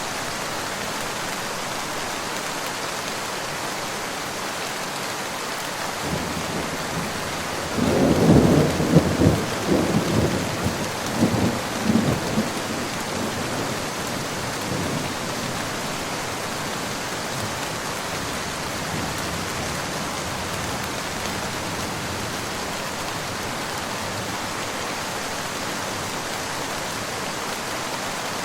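Steady rain falling, with a roll of thunder about six seconds in that builds to several loud cracking peaks and rumbles away over the next several seconds.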